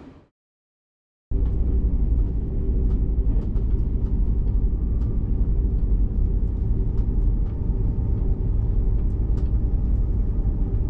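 Steady low rumble of a vehicle in motion, with faint scattered clicks above it. It starts abruptly after about a second of silence.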